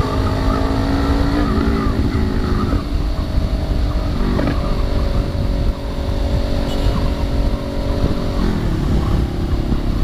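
Kawasaki Ninja 650 parallel-twin engine running while riding, its pitch holding steady with a few shifts up and down, under heavy wind rush on the microphone.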